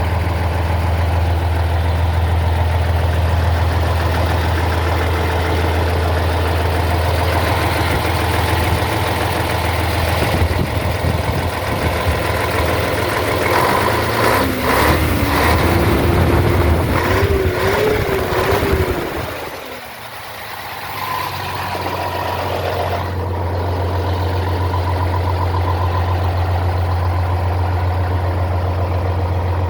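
Scania 111 truck's straight-six diesel engine idling with a steady low drone. Around the middle a wavering higher tone and some knocks come in, and about twenty seconds in the sound briefly drops away before the idle drone returns.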